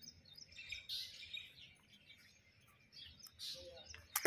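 Birds chirping in short, high calls repeated throughout, with a sharp click near the end.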